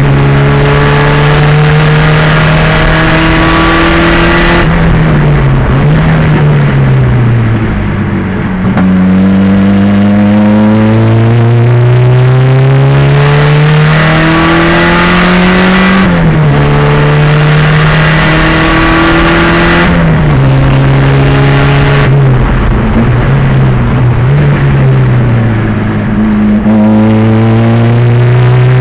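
1987 Pontiac Fiero's 2.0-litre turbocharged engine racing on track: pitch climbs under full throttle and drops back at each gear change. Twice it lifts off and the pitch falls through downshifts before accelerating hard again.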